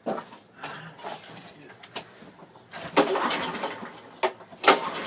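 A few sudden knocks and bits of clatter at irregular intervals, the loudest about three seconds in and just before the end, with no engine running.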